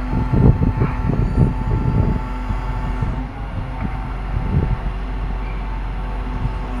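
Truck engine running with a steady hum. Over the first couple of seconds it is mixed with a rapid clatter of knocks, and a single knock comes a little past the middle.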